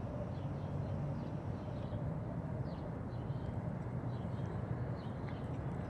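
A steady low rumble, with faint short chirps of birds above it.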